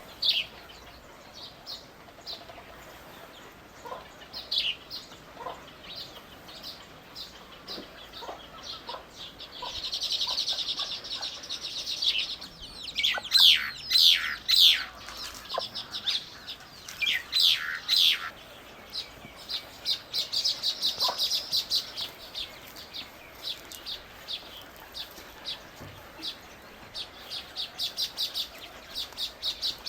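Birds chirping and calling: scattered high chirps, a fast trill about ten seconds in and again about twenty seconds in, and a run of loud, sharp downward calls in the middle.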